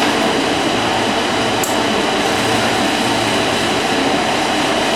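John Deere tractor's engine running steadily, an even mechanical drone with no revving.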